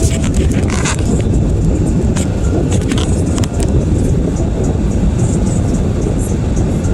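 Steady road and tyre rumble inside a moving Toyota Prius's cabin, with a few light ticks over it.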